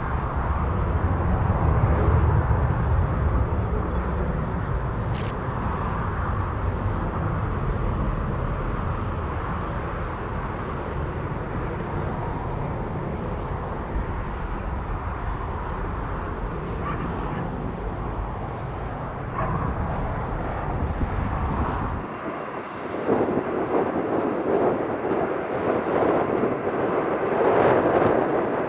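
Aircraft engine noise mixed with wind buffeting the microphone as a low, gusty rumble. About three quarters of the way through, the low rumble cuts off abruptly and the engine sound swells louder toward the end.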